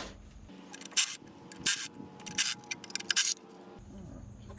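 Ratchet wrench clicking and rasping in short spurts as it loosens the 12 mm nuts and bolts holding the throttle body, with a denser run of clicks near the end.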